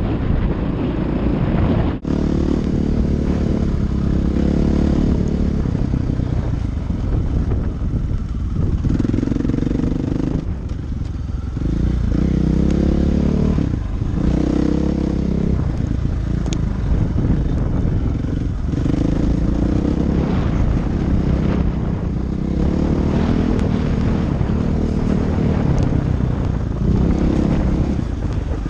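Dirt bike engine running hard on a trail ride. The revs rise and fall over and over as the throttle opens and closes and the gears change, with brief dips several times.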